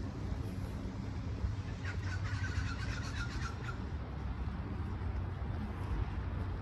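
A bird calling in a quick run of short squawking notes for about two seconds, starting about two seconds in, over a steady low outdoor rumble.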